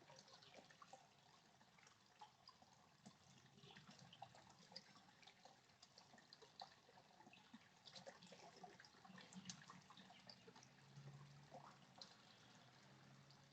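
Faint trickling and dripping water, many small irregular drips and splashes.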